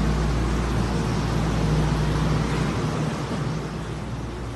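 Steady hum and rumble of a train standing at the platform, with a constant low drone, easing a little quieter near the end as it is heard from inside the carriage.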